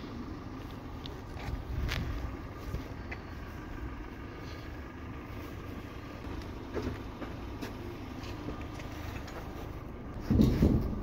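Car engine idling with a steady hum, with a few light clicks. A loud low thump comes near the end.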